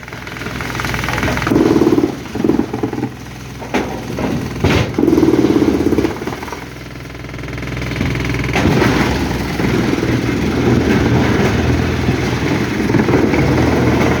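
An engine running and revving up and down several times, with two sharp knocks a few seconds in, then settling into a steady run from about halfway.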